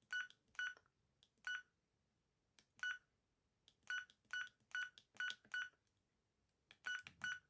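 Amstrad S288 mobile phone giving short, identical single-pitch key beeps as its buttons are pressed, about a dozen at irregular intervals, some in quick runs of three or four.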